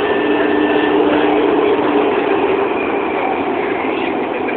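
Subway train running, heard from inside the car: a steady rumbling noise with a low held tone for about the first two seconds.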